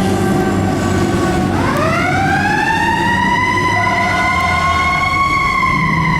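Fire engine siren wailing. It dips in pitch, then rises steeply about a second and a half in, holds high, and starts to fall near the end, with the truck's engine running underneath.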